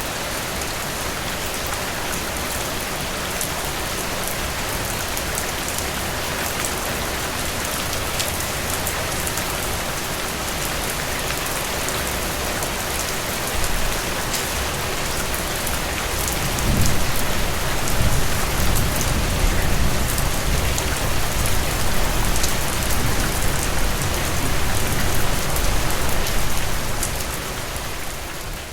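Steady rain falling through trees, an even hiss with scattered drop ticks. About halfway through a deep low rumble builds up under the rain, holds for ten seconds or so and eases off near the end.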